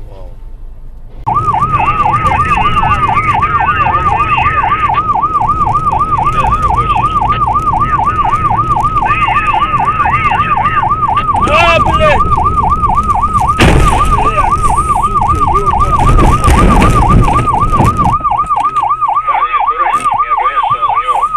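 Emergency vehicle siren in a fast, rapid warble (yelp), switching on abruptly about a second in and sounding loud and continuous over low road and engine noise.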